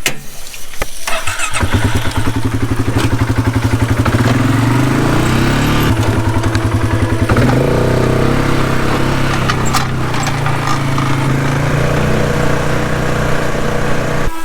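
Engine starting about a second in and running with a fast, even pulse for several seconds, then settling into a steady run.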